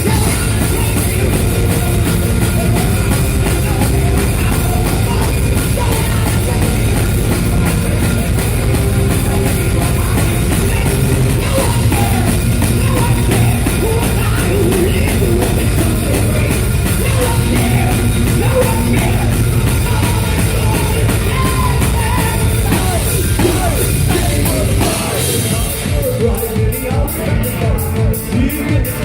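Live heavy metal band playing at full volume, poorly recorded: drums, guitars and a sung vocal line. Near the end the music thins to evenly spaced pounding drum hits.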